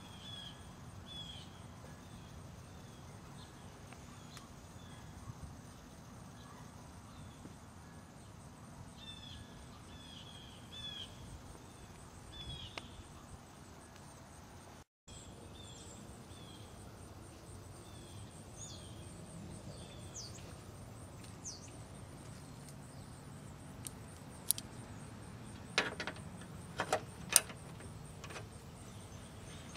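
Small birds chirping in short, repeated high calls over faint background noise. Near the end, four or five sharp clicks as a hand works at the headlight bulb socket under the hood.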